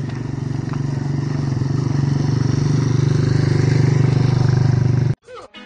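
Motorcycle engine running at a steady pitch with a fast, even pulse. It grows gradually louder, then cuts off suddenly about five seconds in.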